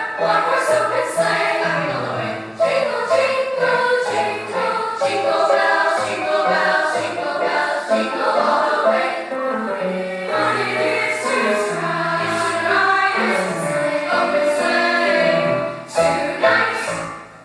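School choir singing in harmony at a holiday concert, with a low accompanying line beneath the voices; the music falls away just before the end.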